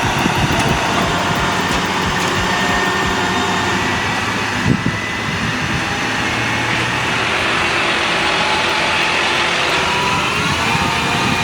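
Heavy truck engines running steadily under load, with road and traffic noise, a single knock about halfway through and the engine note rising slightly near the end.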